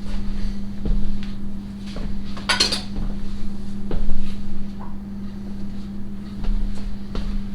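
Kitchen utensils knocking, clinking and scraping against a dish, with the loudest clatter about two and a half seconds in. A steady low hum runs underneath.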